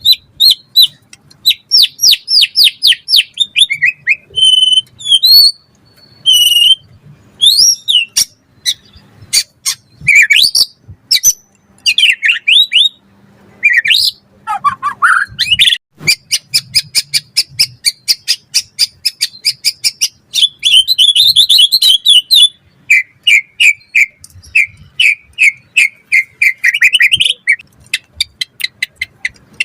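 White-rumped shama singing without pause: fast runs of repeated chips, rapid trills and clear whistled phrases that glide up and down in pitch, each phrase different from the last.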